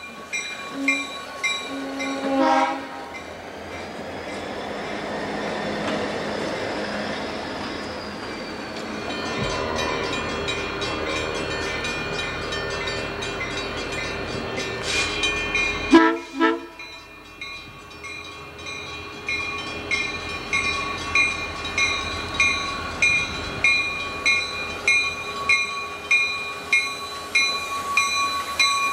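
A Grand Trunk Western diesel freight train passing a road crossing, its locomotives running, while the crossing bell rings steadily about once a second, most clearly in the second half.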